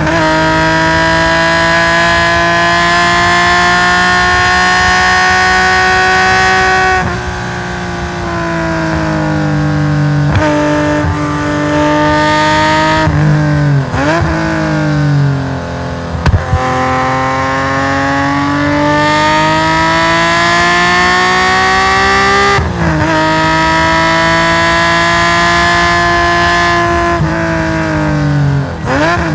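Race-tuned Nissan S20 twin-cam straight-six in a Hakosuka Skyline 2000GT-R at full throttle on track. It holds a high, slightly rising note for several seconds, lifts off, and drops through downshifts with sharp throttle blips. It then climbs steadily again, with a brief gap at a gear change, before lifting and blipping down once more near the end.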